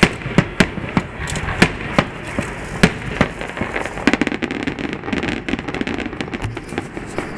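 Aerial fireworks bursting: a run of sharp, separate bangs, then from about four seconds in a denser stream of quick pops.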